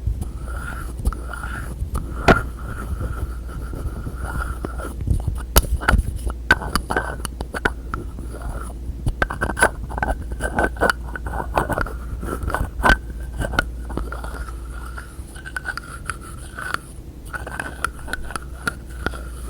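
Fingers tapping and scraping on containers and their lids: an irregular run of sharp clicks and taps over a scratchy rubbing sound.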